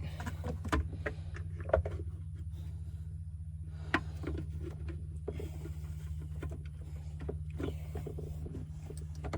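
Handling noise of parts being moved and set in place: scattered clicks and knocks, the sharpest just under one, two and four seconds in, over a steady low hum.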